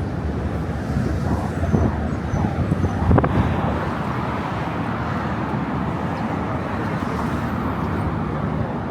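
Steady noise of car traffic crossing the Brooklyn Bridge roadway, with a brief sharper sound about three seconds in.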